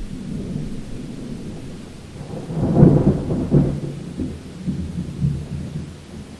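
Thunder rumbling over steady rain, swelling to a loud crack-like peak about three seconds in and then rolling away in weaker rumbles.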